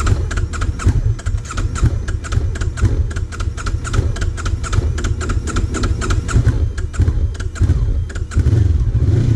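Motorcycle engine being started with difficulty: it fires and sputters unevenly, then runs louder and more evenly near the end. The hard starting is something the owner suspects comes from a valve out of spec.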